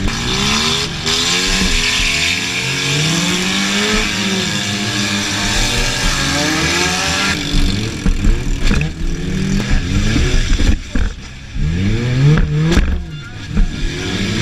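Honda Civic's D16 four-cylinder engine revving up and down hard, heard from inside the cabin, with a steady rushing noise through the first half. In the second half come several sharp bangs as the car hits and is hit by other derby cars.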